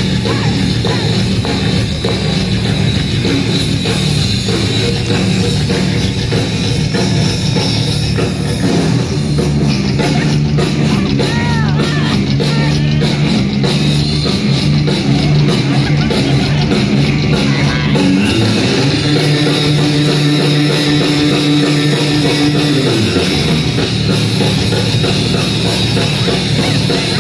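Rock band playing a loud, driving song with electric guitar and drum kit, kicked off by a "1, 2, 3, go!" count-in.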